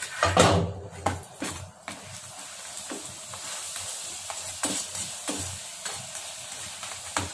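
Cucumber paratha frying in oil on a flat griddle (tawa), sizzling steadily while a metal slotted spatula scrapes and presses it. A louder burst of sizzling and scraping comes in the first second as the paratha is turned over into the oil.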